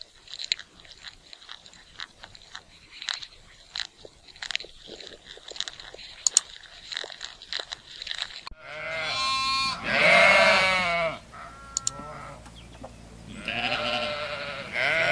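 Lamb bleating twice: two long, quavering bleats, the first about two-thirds of the way in and the second near the end. Before the first bleat there are only faint scattered clicks and rustling.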